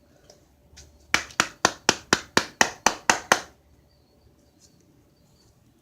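A quick run of about eleven sharp knocks or claps, roughly four to five a second, lasting a little over two seconds.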